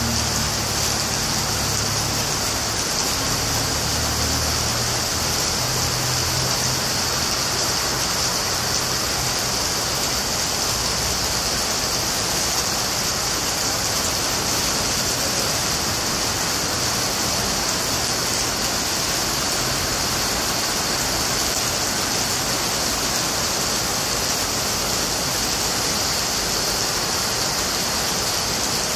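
Heavy rain pouring down in a steady, even hiss. A faint low rumble sits under it for the first few seconds.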